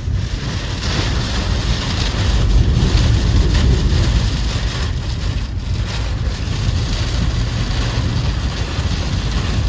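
Strong tornado wind buffeting a vehicle and the microphone: a loud, steady, rumbling rush with gusts now and then.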